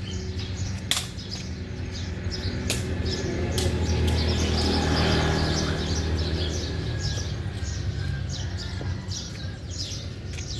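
Many small birds chirping continuously over a steady low motor-like hum that grows louder around the middle and then fades.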